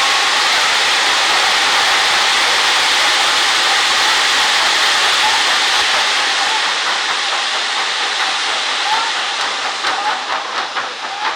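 Handmade gunpowder firework set piece burning, spraying sparks with a loud, steady hiss that starts to die down about two-thirds of the way through, giving way to scattered sharp crackles.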